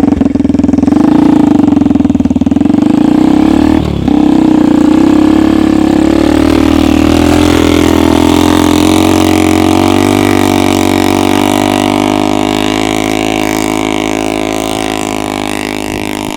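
Homemade snowmobile's engine running under load, its pitch wavering for the first few seconds with a brief dip about four seconds in, then running steadily and slowly getting fainter.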